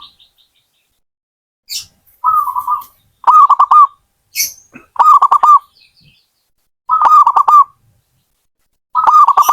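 Zebra dove (perkutut) singing: about five short cooing phrases, each a quick run of rolling notes, coming about every two seconds. Two brief higher chirps fall between the phrases.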